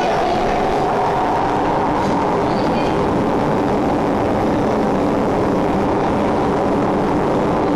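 Interior of an SMRT C651 MRT train running through the tunnel: steady rumble of wheels on rail with the traction motors' whine, whose tone rises slightly about the start.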